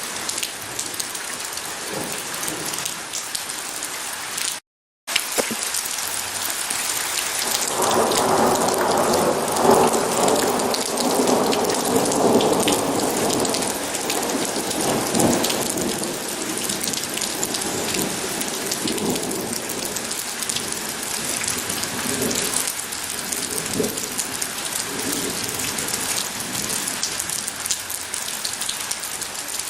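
Steady heavy rain hissing, with a long roll of thunder that builds from about eight seconds in, peaks around ten seconds and dies away by about sixteen seconds; fainter rumbles follow later. The sound cuts out completely for half a second about five seconds in.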